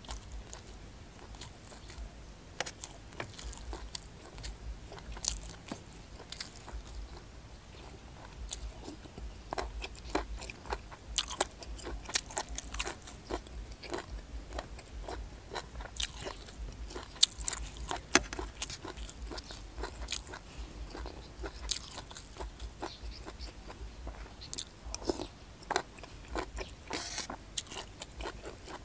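Close-up chewing and crunching as a man bites into tough-skinned puffball mushrooms (hed phao, Astraeus) from a curry, with many short, irregular crunches throughout.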